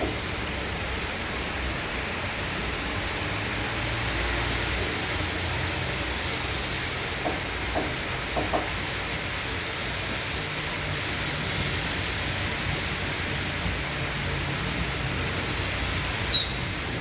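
Heavy tropical downpour: rain pouring steadily as a dense, even hiss, with a few faint knocks about seven to eight and a half seconds in.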